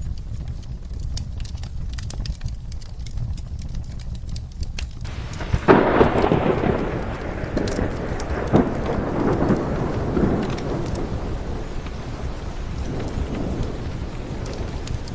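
Steady rain with a low rumble and scattered small crackles. About six seconds in, a sharp thunderclap breaks and rolls away, fading over several seconds.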